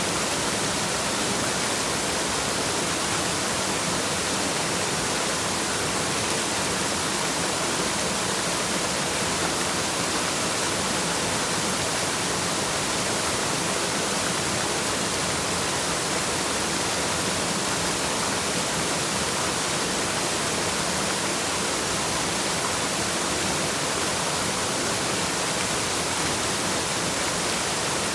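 Waterfall: a steady, unbroken rush of falling water, with more hiss than rumble.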